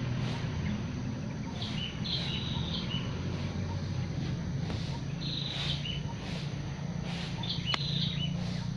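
Small birds giving short, high chirping phrases a few times, over a steady low hum.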